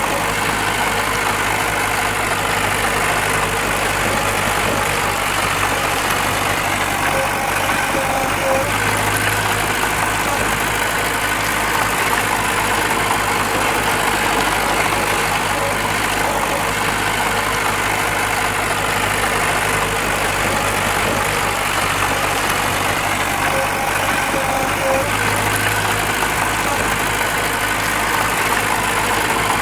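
Diesel engine of heavy earthmoving machinery running steadily at a low, even speed.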